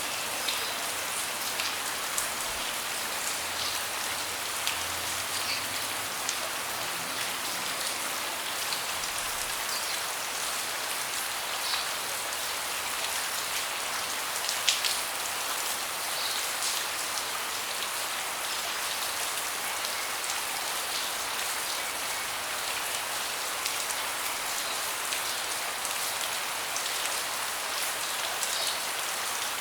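Steady rain falling on a deck, with heavier individual drops tapping now and then and one louder tap about halfway through.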